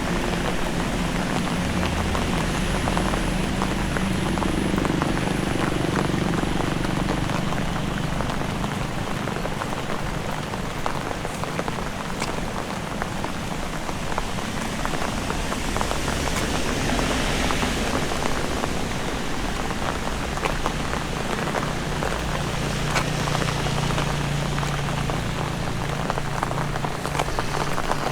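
Heavy rain pouring down, a dense steady patter of drops, with a low steady rumble underneath.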